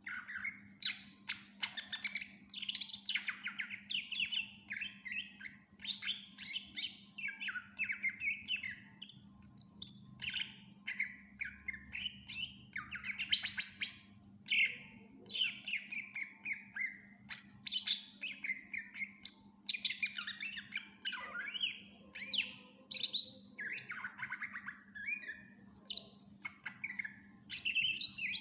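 Cucak ijo (green leafbird) singing a long, varied song of rapid chirps, whistles and trills, packed with mimicked phrases, with hardly a pause. A steady low hum runs underneath.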